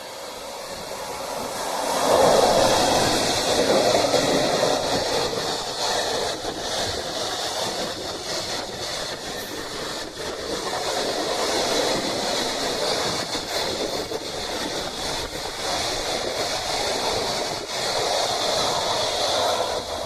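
Freight train passing close by: a steady rumble and clatter of wagon wheels on the rails, building over the first two seconds, holding with swells as the wagons go by, and dropping away right at the end.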